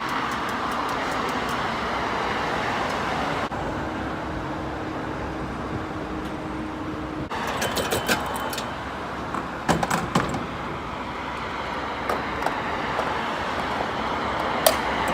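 Steady road-traffic and vehicle noise, with a few sharp clicks and knocks in the second half.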